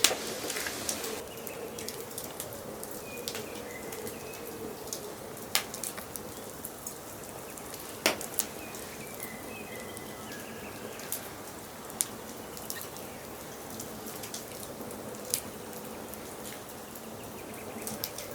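Wood fire in a fireplace crackling, with sharp pops every few seconds; the loudest pop comes at the very start and another strong one about eight seconds in. Faint bird chirps sound behind it a few seconds in and again around the middle.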